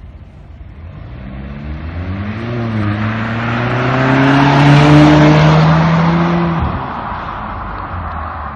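Volvo S60 T5 2.0-litre turbo car accelerating through a stainless-steel RES valved cat-back exhaust. The engine note climbs in pitch and grows louder to a peak about five seconds in, then the throttle closes abruptly and the note drops away.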